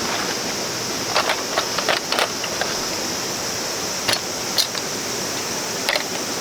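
Steady high-pitched drone of summer cicadas over the rush of a stream, with a few short crunches and clicks scattered through it, a cluster of four about a second in and more later.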